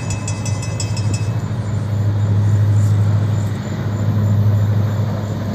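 Diesel freight locomotives of a Florida East Coast Railway train passing close by, with a steady low engine drone. A rapidly ringing bell dies away about a second in.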